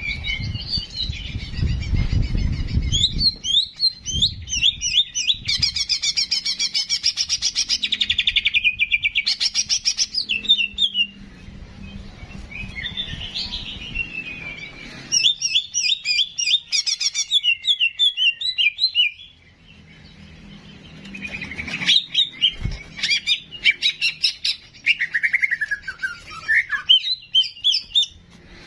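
Small songbird known in Indonesian bird-keeping as cicak jenggot singing in fast chattering trills mixed with gliding, falling whistled notes, in several bursts with short pauses between them. There is a low rumble under the first few seconds.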